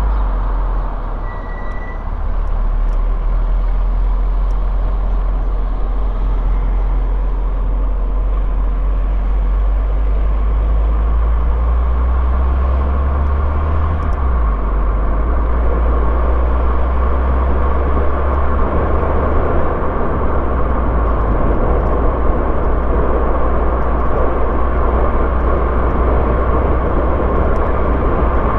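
Car driving along a road: steady engine and tyre noise with a continuous low rumble.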